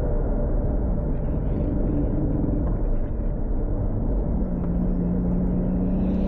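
Toyota Supra MK4's turbocharged 2JZ engine running at low, steady revs, the sound sitting mostly in the low range; a steady engine tone comes in about four seconds in.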